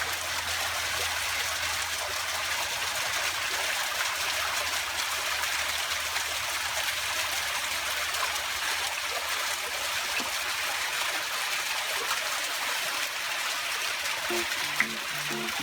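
Running stream water, a steady rushing hiss, with music notes coming in near the end.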